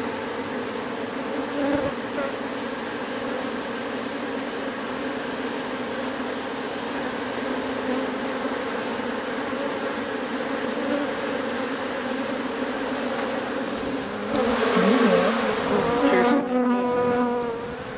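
Honeybee swarm buzzing steadily, the dense hum of many bees milling around a collection tub. About three and a half seconds before the end a louder rush of noise and a brief pitched whine rise over the hum.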